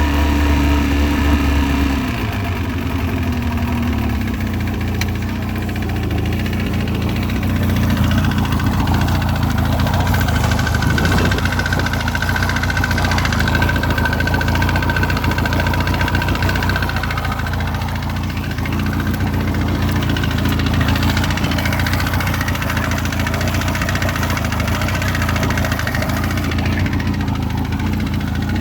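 2002 Mercury 115 hp outboard motor running, with the knock that the owner takes for piston slap. Its speed drops about two seconds in, and then it idles steadily.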